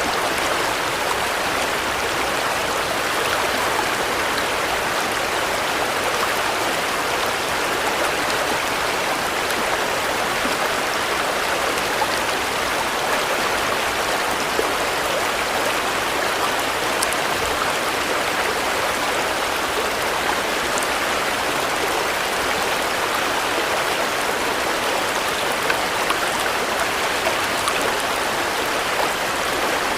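Steady rain falling, an even rushing hiss with a few faint drop ticks on top.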